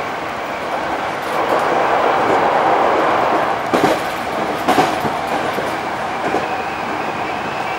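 Hankyu electric commuter train running at speed, heard from inside the front car: a steady rolling rumble of wheels on rail that swells for a few seconds. About four and five seconds in come two sharp clacks from the wheels, with a lighter one a little later.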